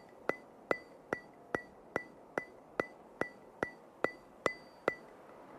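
Evenly spaced percussive ticks, about two and a half a second, each with a short high ring, like a metronome or wood block keeping time in a music track; they stop shortly before the end.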